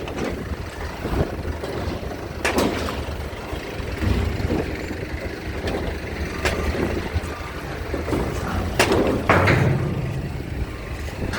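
Low steady rumble of heavy vehicle engines, with several sharp knocks and clanks scattered through it.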